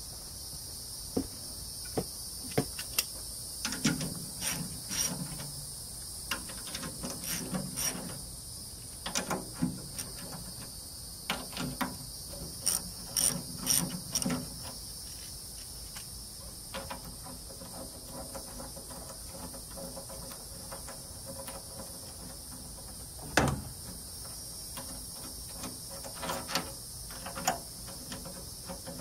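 Hand tools working the prop bolts: ratchet clicks and metal clinks in scattered bursts, with one sharp knock a little past the middle. Crickets chirr steadily behind it.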